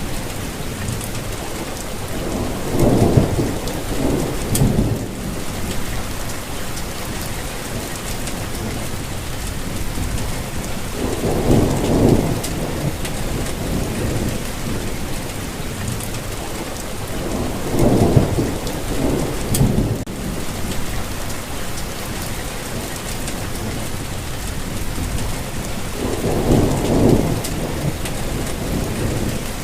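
Steady rainfall hissing, with a low rumble swelling up and fading four times, roughly every eight seconds.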